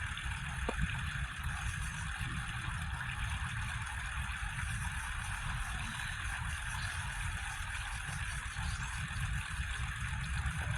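Steady outdoor background noise: a fluctuating low rumble under an even hiss, with no distinct event standing out.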